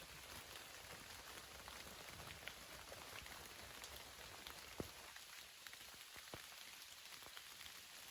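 Steady rain with scattered heavier drops ticking close by, one louder drop about five seconds in.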